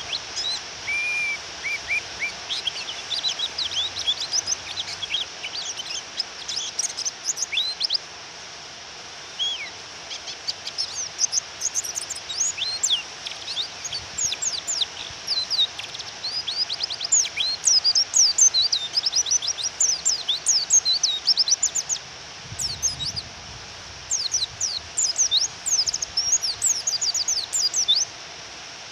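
White-eye (pleci) calls: rapid clusters of thin, high chirps and quick sweeping notes, the female call used to provoke male white-eyes into singing, over a steady hiss of rain. The chirping pauses briefly about eight seconds in.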